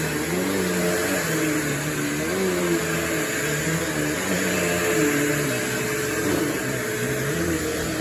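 Bissell PowerForce Turbo bagless upright vacuum running, a steady motor whine with lower tones that waver up and down in pitch.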